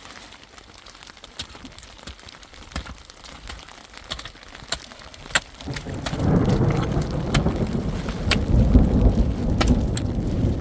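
Rain falling, individual drops ticking sharply on a hard surface, with a loud low rumble setting in about six seconds in and carrying on.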